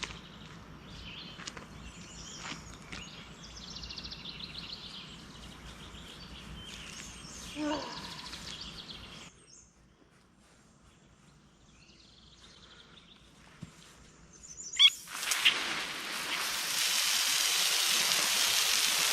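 Birds chirping over outdoor background noise with scattered light clicks, then a lull, then a loud, steady hiss starting about three-quarters of the way through.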